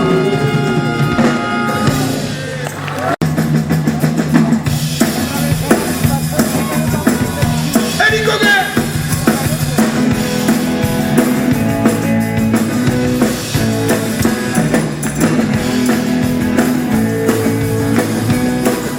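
Live rock and roll band playing: a held chord dies away, the sound cuts out for an instant about three seconds in, then the drum kit, bass and guitar play an instrumental passage with a steady beat.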